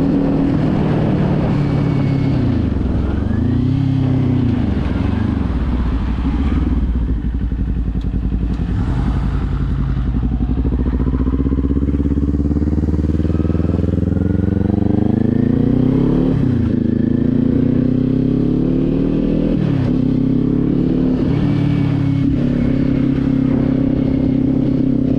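Kawasaki Z400 parallel-twin engine under way: the revs dip and recover early on, then climb steadily for several seconds. Sharp drops in pitch follow as it shifts up three times, and it settles to a steady cruise near the end.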